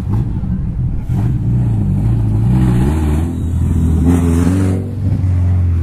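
A car engine running and being revved: its pitch rises and falls a few times in the middle, then settles.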